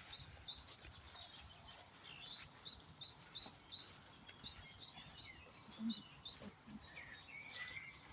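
Faint woodland birdsong: several small birds chirping with short high notes, including one bird repeating a single note evenly about three times a second for a couple of seconds. A couple of soft low thuds come a little before six seconds in.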